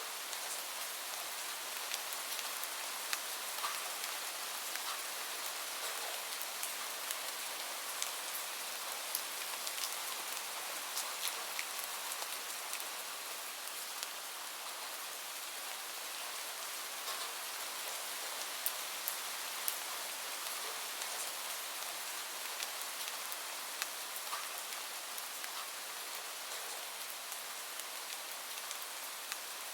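Steady rain falling, an even hiss, with many small sharp crackles and ticks scattered through it.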